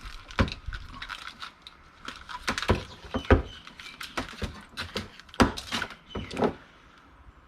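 Hands rummaging through tangled cords and small electronic items: irregular clicks, knocks and rattles of plastic plugs and metal parts.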